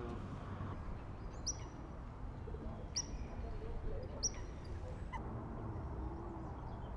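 A bird calling: three short, high-pitched calls about a second and a half apart, over a steady low background rumble.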